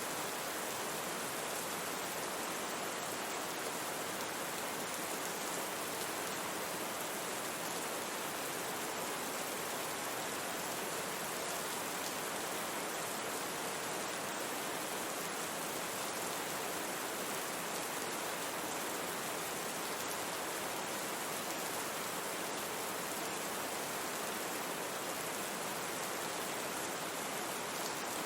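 Steady rain sound mixed with brown noise: an even, unbroken hiss that does not change in level.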